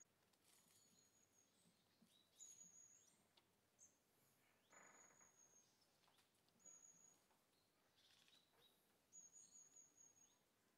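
Faint birdsong: short high chirps and trills repeating every second or two.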